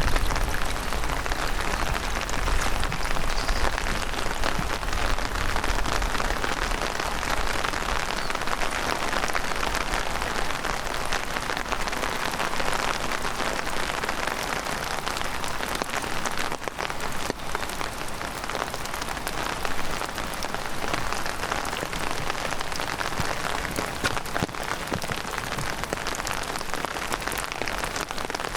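Heavy downpour of rain falling steadily, with many close drop hits ticking through the hiss. A low rumble underneath fades out in the first few seconds.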